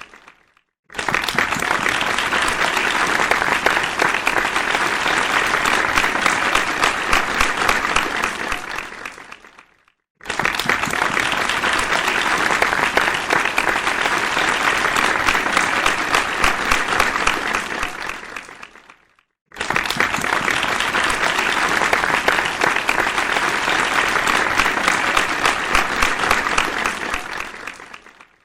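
Applause from a large crowd, many hands clapping densely together. It comes in three rounds, each starting suddenly at full strength and dying away over a couple of seconds, with a brief silence between rounds.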